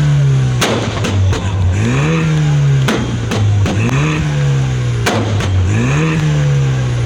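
BMW 2 Series car engine revved repeatedly while standing still, its pitch climbing, holding and dropping back about every two seconds. Sharp exhaust bangs crack between the revs.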